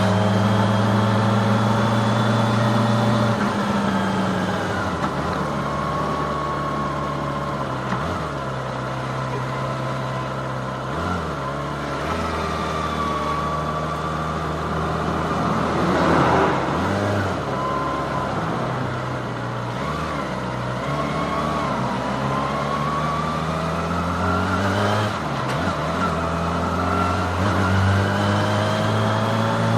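Kawasaki ZX-25R's 250cc inline-four engine running as the bike is ridden at easy cruising revs. The engine note drops about four seconds in, holds fairly steady with small shifts, and climbs again near the end. There is a brief louder rush of noise about halfway through.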